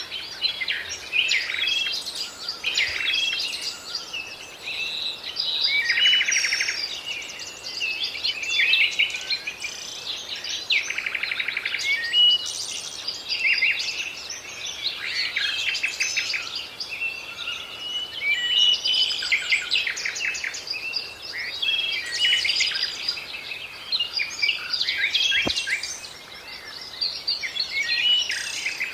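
Many birds singing and calling together, a dense chorus of overlapping chirps, trills and short whistles.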